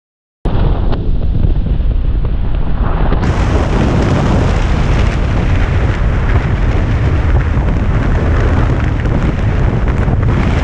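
Wind buffeting the microphone of a camera on a moving motorcycle: a loud, steady rumbling rush that starts abruptly about half a second in.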